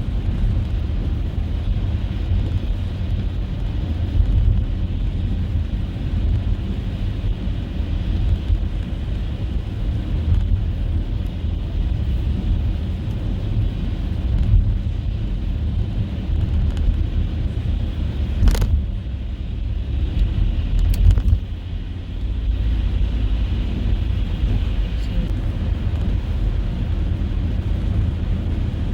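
Car driving on a snowy road: a steady low rumble of engine and tyre noise, with a sharp click about two-thirds of the way through and another a couple of seconds later.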